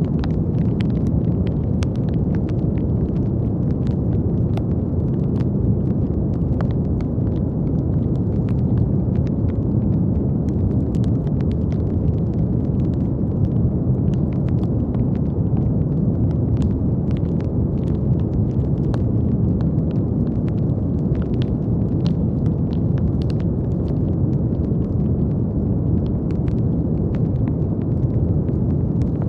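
Steady brown noise, a deep, even rushing hiss with no change, scattered with small, irregular crackling clicks.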